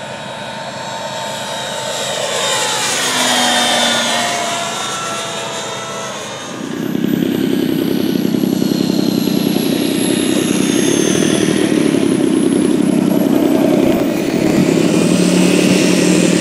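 Radio-controlled model airplane engine passing overhead, its whine sweeping in pitch as it comes near and goes away. About six seconds in, a louder, lower buzzing engine takes over close by.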